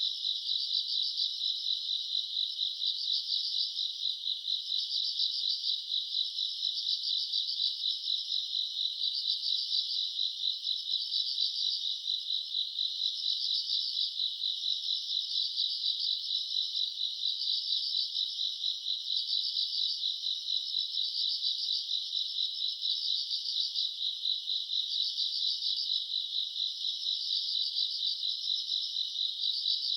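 A night chorus of grass insects such as crickets, a dense, continuous high-pitched chirring with a louder trill swelling every second or two.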